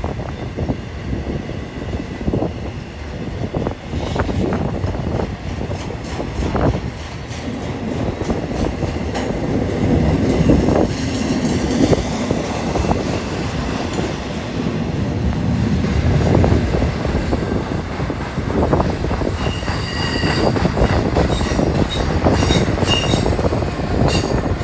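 BNSF Z intermodal train's cars rolling past down the steep grade, a continuous rumble with repeated wheel knocks and clatter. In the last few seconds high thin wheel squeal joins in.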